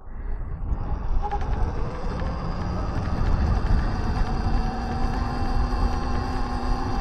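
Electric dirt bike riding along a trail: a steady low rumble of wind on the microphone over a faint, even motor whine.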